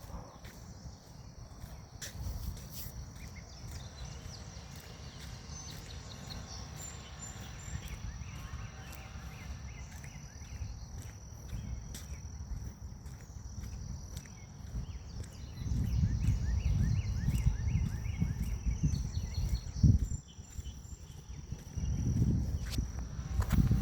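Forest ambience: grass insects keep up a steady high-pitched drone while birds chirp in short repeated runs. From about two-thirds of the way in, wind gusts on the microphone rumble loudly.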